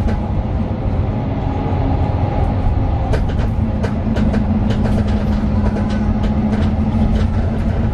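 Inside a Mercedes-Benz Citaro 2 city bus on the move: its OM 936 six-cylinder diesel runs steadily with a low drone, and interior fittings rattle and click over the road surface, the rattles thickest from about three seconds in.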